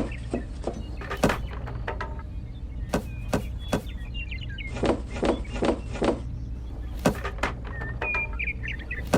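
Irregular knocks and taps, with a quick run of five or six strokes about five seconds in, over a steady low hum, and birds chirping.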